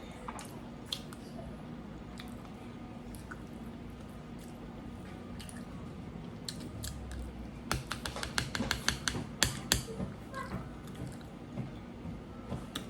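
Close-miked eating sounds: quiet chewing with small mouth clicks over a faint steady hum, then a run of sharp, rapid clicks and smacks lasting about two seconds past the middle.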